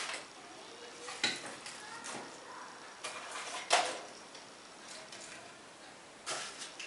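A few sharp knocks and clinks at a fireplace, the loudest a little under four seconds in, each with a short ring, as wood and metal are handled.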